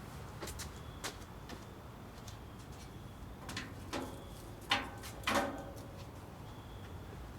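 Wood fire in a homemade rocket heater stove crackling and popping: irregular sharp cracks, with two louder knocks about five seconds in.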